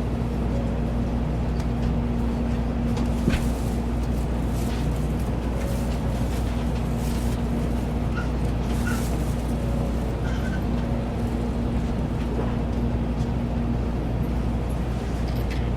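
Shinkansen bullet train running, heard from inside the passenger cabin: a steady low rumble with a constant hum, a few faint clicks and a sharper tick about three seconds in.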